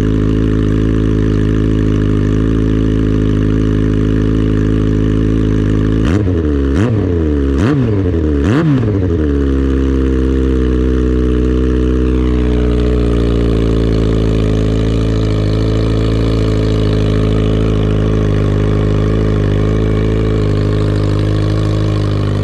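2003 Yamaha R1's 1000cc inline-four idling through a Coffman aftermarket exhaust after a cold start. About six to nine seconds in, four quick throttle blips make the pitch rise and fall, and then it settles back to a steady idle.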